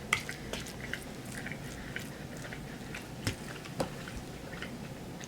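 A person chewing a mouthful of chicken and rice, with small wet mouth clicks and a few light ticks scattered through it.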